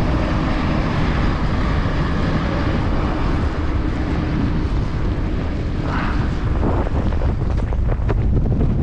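Snowplow truck's engine droning steadily as it passes, under blizzard wind buffeting the microphone.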